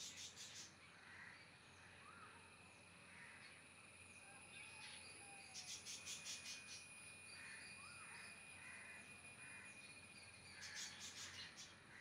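Faint bird calls: three quick runs of short, sharp repeated notes, at the start, about six seconds in and near the end, with softer scattered chirps between, over a steady high-pitched whine.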